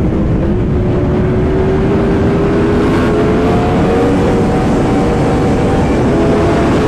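Yamaha R1M's crossplane inline-four running hard through an aftermarket titanium exhaust while riding, its pitch climbing steadily as the bike pulls in gear, then dropping near the end. A heavy rush of wind noise runs underneath.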